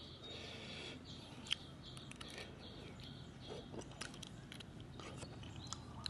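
A person chewing and eating spicy papaya salad with seafood, with scattered small crunches and mouth clicks.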